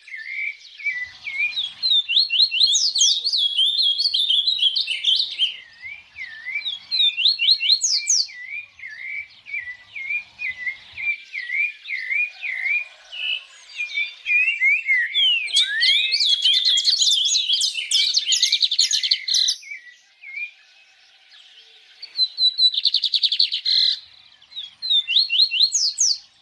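Sabiá thrushes calling: a long run of quick, repeated chirps, with bursts of rapid high rising notes. There is a short pause about three quarters of the way through.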